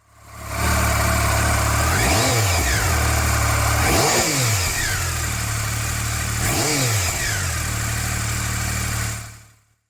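Triumph Speed Triple 1050's inline three-cylinder engine idling through a GRmoto aftermarket low exhaust, with three short throttle blips that rise and fall in pitch. The sound fades in at the start and fades out shortly before the end.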